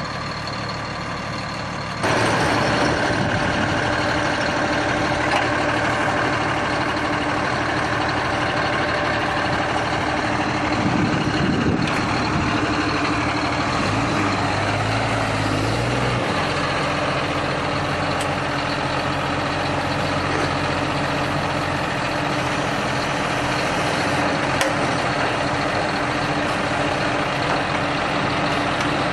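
A heavy vehicle's engine running steadily, with a sudden jump in loudness about two seconds in.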